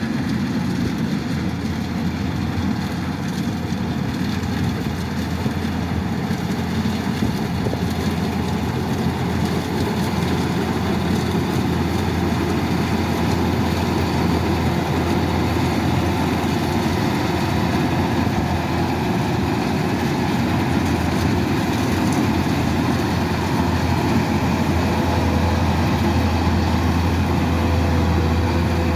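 Kubota DC-108X rice combine harvester running steadily: a continuous low engine drone mixed with machinery noise, growing slightly louder toward the end.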